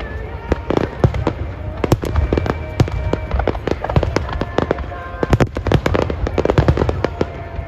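Aerial fireworks bursting in a dense barrage, many sharp bangs in quick succession over a continuous low rumble.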